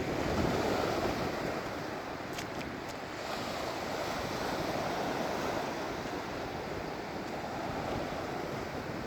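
Surf washing onto a sandy beach, a steady rush of breaking waves that swells louder about half a second in, with wind on the phone's microphone.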